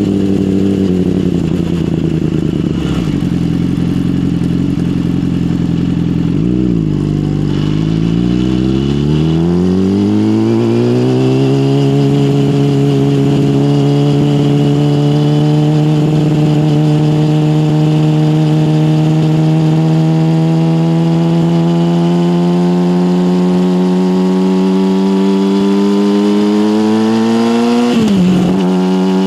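Yamaha motorcycle engine through an SC-Project aftermarket exhaust, running at low revs with a short blip of throttle about a third of the way in. The pitch then rises as the bike accelerates and holds nearly steady at a cruise. Near the end the revs dip sharply and recover.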